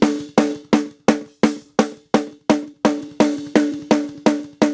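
Recorded snare drum track played back, struck evenly about three times a second, each hit ringing briefly with a clear pitched tone. A noise gate closes after every hit, so each decay is cut off to silence and the bleed between hits is gone.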